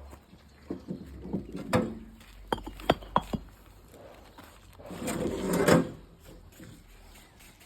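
Concrete pavers being handled and set: several sharp knocks and clacks in the first few seconds, then a longer scraping sound about five seconds in.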